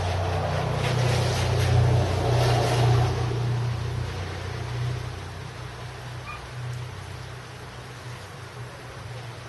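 Engine of a passing motor vehicle, loudest in the first three seconds and then fading away, over the steady hiss of falling rain.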